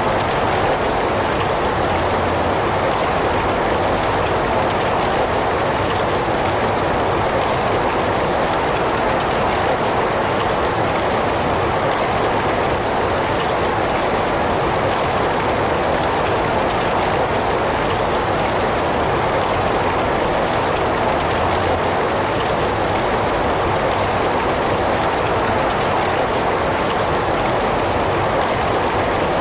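Heavy rain falling steadily: an even, unbroken hiss centred in the middle range, with no changes or single loud drops.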